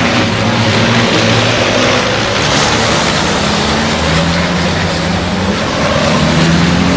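Loud large vehicle engine revving, its pitch stepping up and down over a dense wash of noise.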